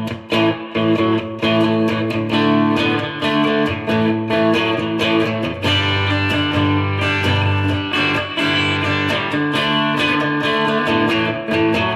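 Electric Stratocaster guitar played through a Fender Mustang GTX100 amplifier on its "Surf Splash" preset: a steady run of picked notes and chords in a surf-guitar style.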